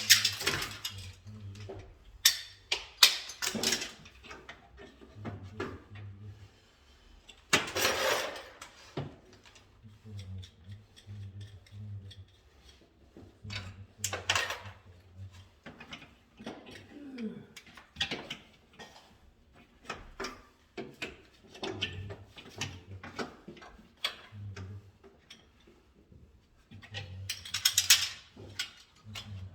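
Irregular clicks, knocks and scrapes of hand tools and parts being handled during electrical wiring work. The longest and loudest scrape comes about eight seconds in, and a quick cluster of clicks falls near the end.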